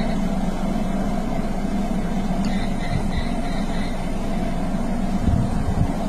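A vehicle engine idling with a steady low hum; a deeper, uneven rumble builds near the end.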